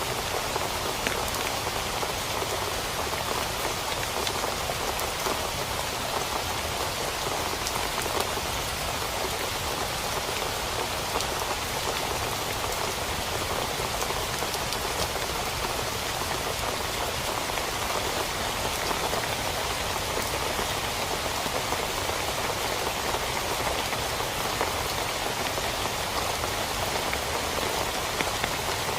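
Steady rain falling on a tent, with many separate drop hits.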